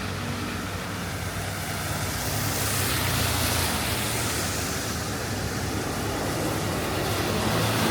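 Traffic on a wet city street: a steady low engine hum under a wash of tyre hiss on the wet road, with one vehicle's hiss swelling past about three seconds in.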